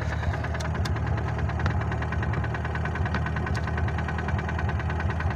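VAZ-2106 four-cylinder petrol engine idling with a steady, rhythmic knock, freshly started after standing for months.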